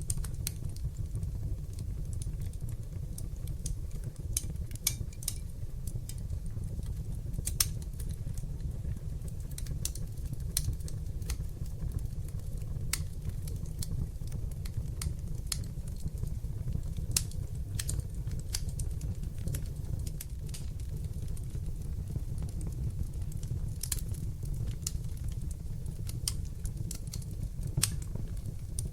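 Wood fire in a fireplace crackling: irregular sharp pops and snaps over a steady low rumble of burning flames.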